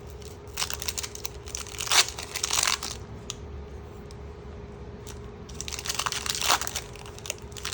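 Pokémon trading cards and their packaging being handled: crinkling and rustling in two spells, about a second in and again around six seconds in, over a steady faint hum.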